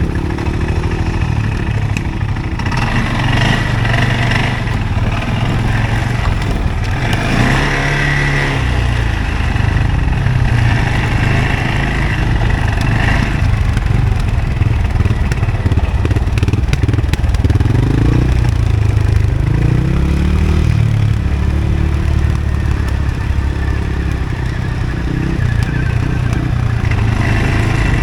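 CFMoto ATV engine running under way, the revs rising and falling several times.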